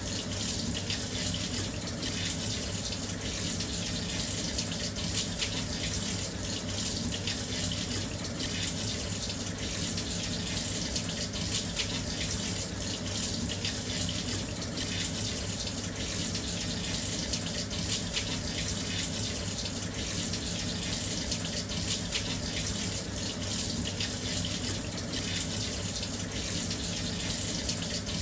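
Washing machine filling with water: a steady, continuous rush of water pouring into the drum.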